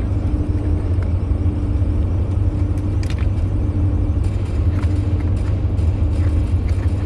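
Steady low rumble of a moving vehicle heard from inside the cabin, with a constant hum. A few short crinkles and clicks of packaging being handled cut through it.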